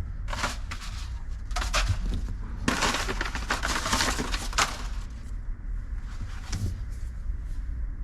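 Crackling, rustling handling noise, likely sound-deadening sheets being worked during insulation fitting. It comes in several bursts, the longest lasting about two seconds in the middle, over a steady low hum.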